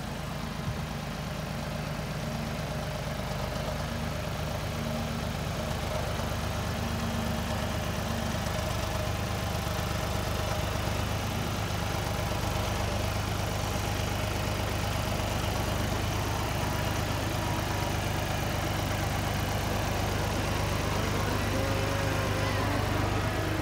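A vehicle engine running steadily: a continuous low hum that grows gradually louder.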